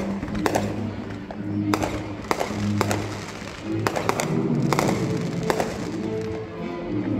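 Fireworks bursting in a series of sharp bangs, about one a second, over loud music with long held notes.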